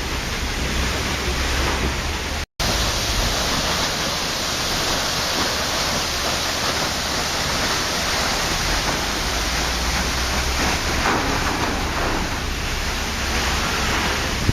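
Waterfall: a steady, even rush of falling water. It cuts out for an instant about two and a half seconds in, then carries on unchanged.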